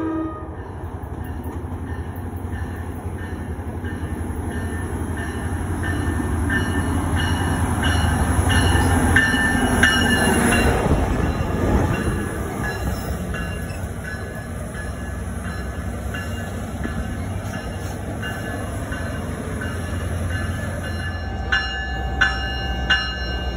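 Commuter train passing close along the platform: a steady low rumble with evenly spaced clicking from the wheels, loudest about ten seconds in. A few sharp clacks near the end.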